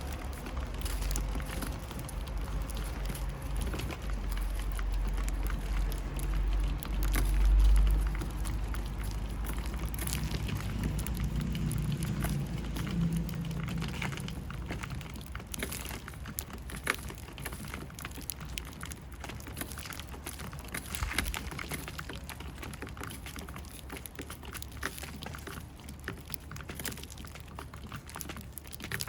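Many light, irregular ticks and taps over a low rumble. The rumble is strongest in the first half and fades after about halfway.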